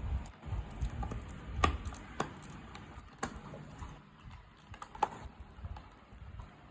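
A dog chewing and crunching mutton: irregular sharp clicks, the loudest about a second and a half in and again near five seconds, over low mouth noises.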